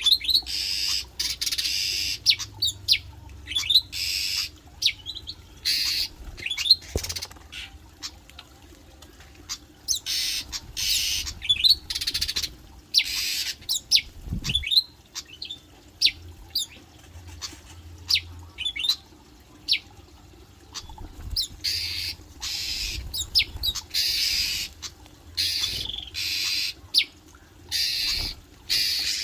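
Cage birds calling over and over: repeated harsh squawks, each under a second, mixed with short, sharp whistled chirps.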